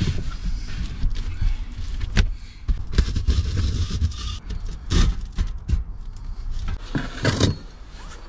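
Irregular knocks, clunks and rubbing from a homemade stove's chimney pipe being handled and pushed out, over a low rumble, with a louder rustling scrape about seven seconds in.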